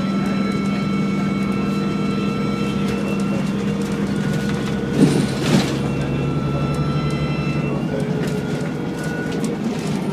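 ADL Enviro 400 double-decker bus running with its engine drone and a steady high-pitched whine on top that changes pitch about halfway through. Two short bumps about five seconds in.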